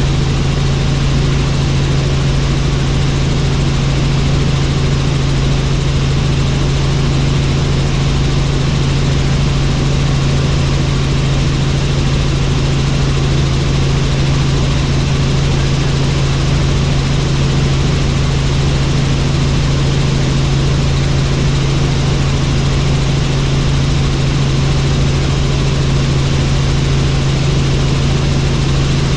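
Helicopter in flight heard from on board: a loud, steady drone of rotor and engine with a strong low hum that does not change.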